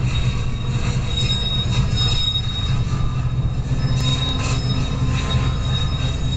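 CN freight train rolling slowly, its wheels squealing on the rail in thin, high tones that come and go over a steady low rumble.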